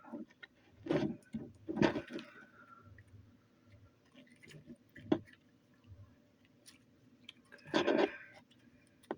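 Slime being squeezed and worked by hand around a small plastic toy, giving a few short, irregular soft squelches.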